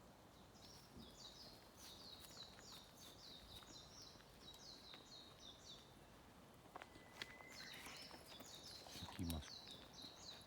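A small bird calling faintly: a quick series of short, falling high notes, about four a second, in two runs with a pause between them. A brief low thump comes near the end.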